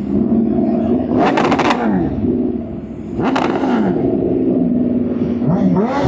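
Aprilia RSV4 1100 Factory V4 sport-bike engine running at low riding speed, revved sharply twice, about a second in and again just past three seconds, the pitch falling back after each, with more rising and falling revs near the end.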